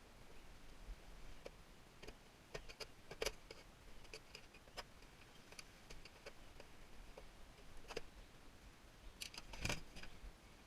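Faint, scattered clicks and light knocks of small hard objects being handled, with a louder clatter of several knocks about nine seconds in.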